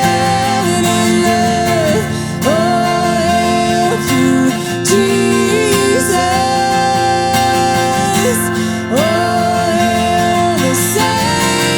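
Live acoustic worship music: acoustic guitar playing under long held sung notes without words, each note sustained for a second or two.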